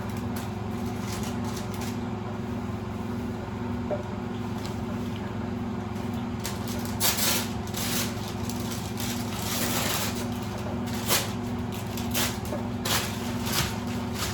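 A kitchen appliance hums steadily with a low, slightly pulsing drone. Over it come short clicks and clatters of kitchen handling, mostly in the second half.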